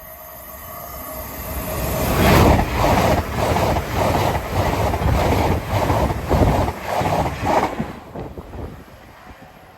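LNER Azuma (Class 800) express train passing at speed: it builds up, goes by with a rhythm of wheel thumps about twice a second for some five seconds, then fades.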